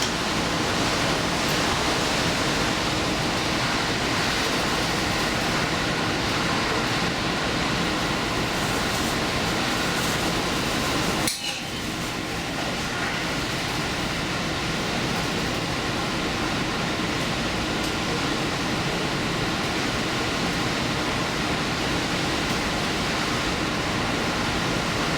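Steady running noise of a diesel express train on the move, heard from inside the front of the train. There is one sharp click about eleven seconds in, after which the noise is a little quieter.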